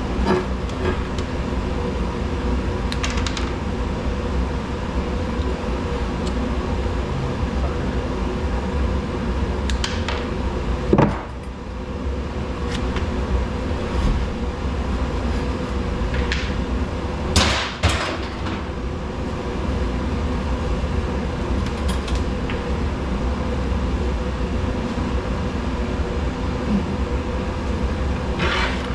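A steady low machine hum runs throughout, with occasional knocks and clanks. The two loudest come about 11 seconds and 17 seconds in.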